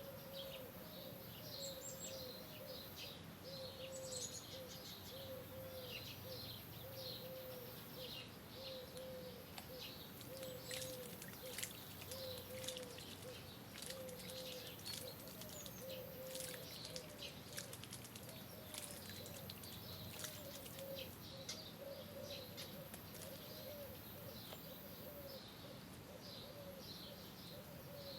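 Outdoor ambience of birds chirping and twittering, with a low, short note repeated about once a second throughout, over a faint background hiss.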